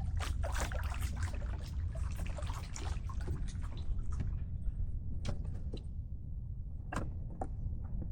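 Water splashing and trickling as a kayak is pushed into the water, busy for the first four seconds or so, then thinning to scattered clicks and knocks. A steady low rumble of wind on the microphone runs underneath.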